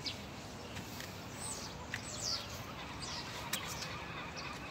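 Birds chirping: a few short, high calls, each sliding downward in pitch, in the middle stretch, over a steady background hiss.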